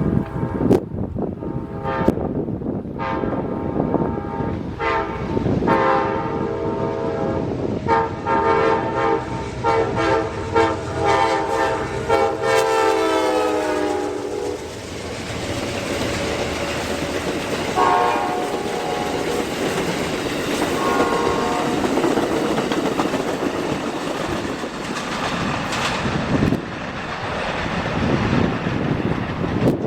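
Diesel freight locomotive's air horn sounding a long blast over rhythmic clicking of wheels on rail joints, dipping in pitch as the locomotive goes by. Then comes the steady rumble of the train rolling past, with two short horn blasts.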